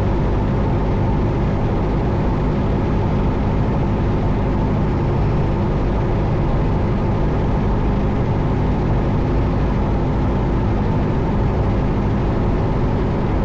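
Cessna 172 Skyhawk's four-cylinder Lycoming engine and propeller running steadily in flight, heard inside the cockpit as an even drone.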